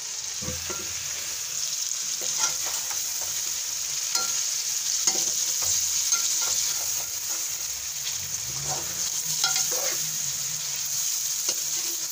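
Chicken pieces and chopped onions sizzling in hot oil in a metal karahi, stirred with a perforated metal spoon that scrapes and knocks against the pan at irregular moments over a steady frying hiss.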